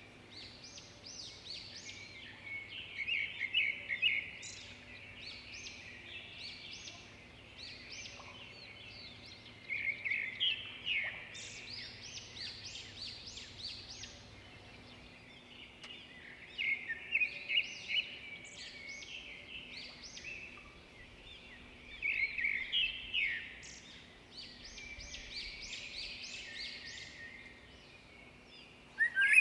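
Songbird singing: bursts of rapid, high chirping notes, repeated in phrases every five or six seconds.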